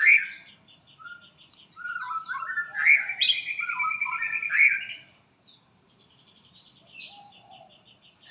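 White-rumped shama (murai batu) singing a varied song of clear whistled notes that step up and down, broken by fast trills, loudest in its middle phrase. A spotted dove coos faintly in the background.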